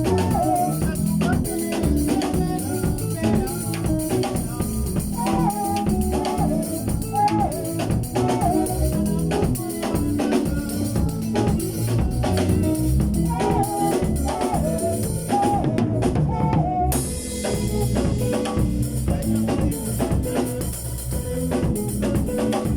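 Instrumental stretch of a Zimbabwean song: a drum kit keeps a busy, steady beat under a pitched melodic line. The top end turns brighter about two-thirds of the way through.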